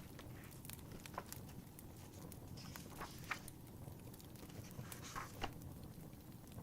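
Fireplace crackling, with small sharp pops scattered throughout over a low rumble, and a few louder knocks or creaks around three and five seconds in.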